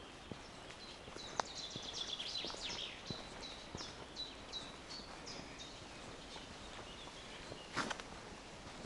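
Footsteps on a forest path, steady and regular, while a songbird sings a run of short high notes for a few seconds. Near the end there is one louder scuff or crunch.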